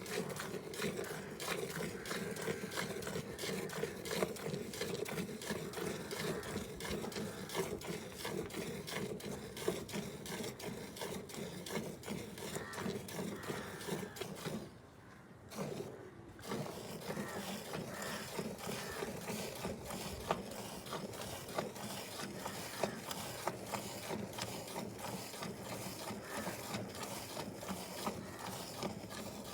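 A cow being milked: a fast, continuous rhythmic scraping and squirting pattern that stops briefly about halfway through, then resumes.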